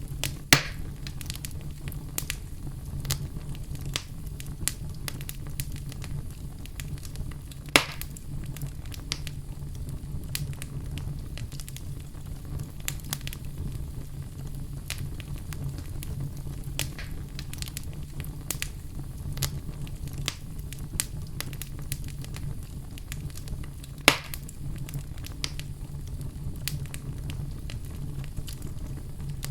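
Wood fire burning in a fireplace: steady low rumble of the flames with frequent small crackles and three loud pops, about half a second in, near 8 seconds and near 24 seconds.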